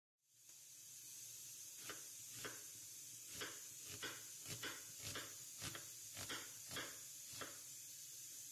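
A series of light, sharp knocks or taps, about a dozen at uneven intervals, over a steady hiss.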